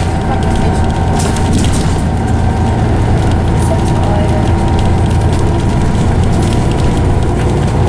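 Scania OmniCity single-decker bus under way, heard from inside the saloon: a steady engine rumble with a loud, even whine from its ZF automatic gearbox, and some light rattling.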